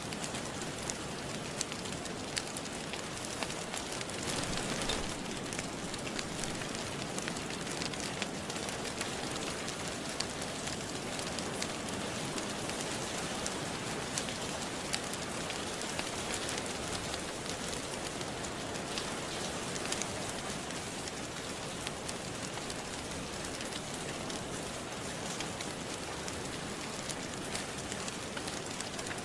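Steady rain falling, with the scattered small crackles and pops of a wood fire burning in a fireplace.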